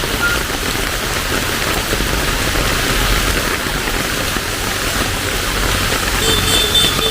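Heavy rain falling steadily in a dense, even hiss. Near the end, a brief high-pitched tone sounds over it.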